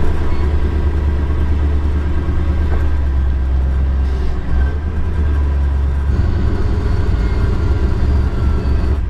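Truck engine running steadily with a deep, low rumble; the sound shifts, growing fuller, about six seconds in.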